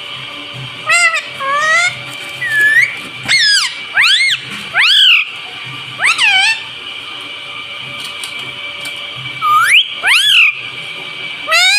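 Pet ringneck parrot giving a string of short, high calls that sweep up and down in pitch, about ten in all, in clusters with pauses between.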